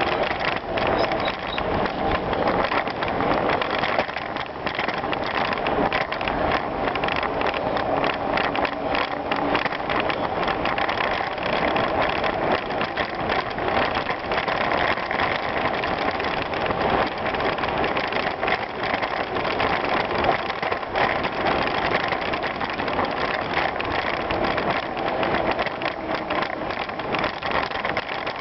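Bicycle ridden over an off-road gravel trail: steady tyre noise on the loose surface with constant small rattles and clicks from the bike.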